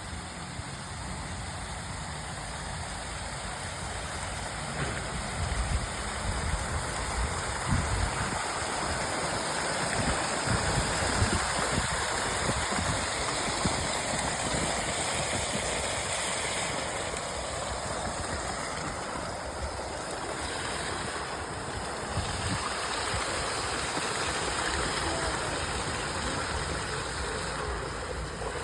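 Steady rush of splashing water, with uneven low rumbles underneath.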